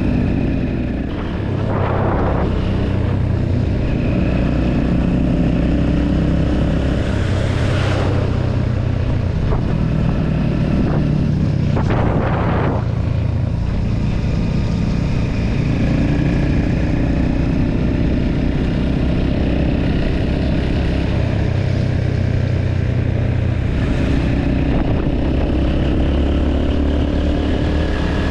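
Motorbike engine running at road speed, its pitch shifting a little with the throttle, under a steady rush of wind on the mic. There are a few brief surges of rushing noise along the way.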